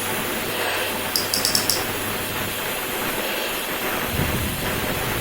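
Gas torch flame hissing steadily as it preheats the cracked area of a bronze propeller blade before welding, with a short run of high ticks about a second in.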